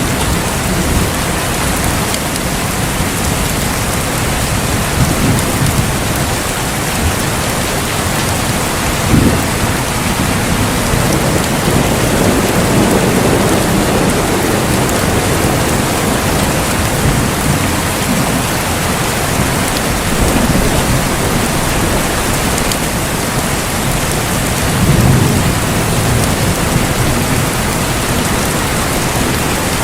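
Steady heavy rain with rolling thunder: low rumbles swell up about a third of the way in, again around the middle, and most strongly near the end.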